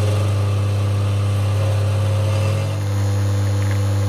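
Rocket espresso machine's pump running with a steady, loud hum as an espresso is brewed, the machine working normally again. The hum dips slightly and its tone shifts a little before the end.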